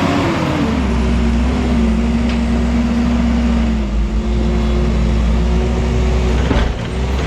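Heavy machine's engine running steadily under load, with a deep rumble and a steady hum whose pitch dips slightly at the start.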